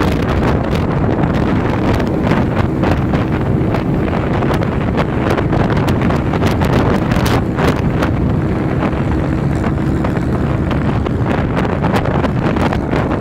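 Wind buffeting the microphone of a moving vehicle, loud and steady, with an engine running underneath at a steady pitch.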